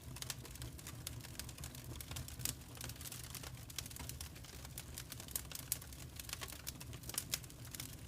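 Wood fire crackling in a fireplace: irregular snaps and pops, several a second, over a low steady rumble.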